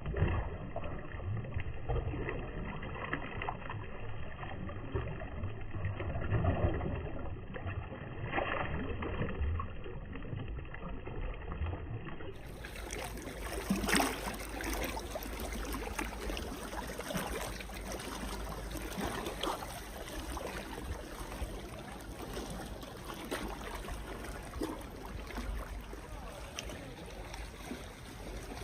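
Seaside water ambience: small waves lapping and splashing at the shore in a steady wash of noise, with a few louder splashes.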